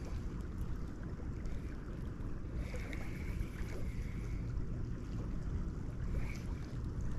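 Wind buffeting the microphone, a steady low rumble, over the rush of moving creek water.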